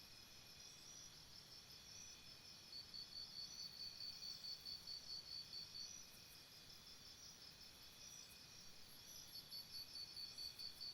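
Faint chorus of insects, such as crickets, trilling steadily at several high pitches. A louder pulsing call of about four pulses a second comes in twice: a few seconds in, and again near the end.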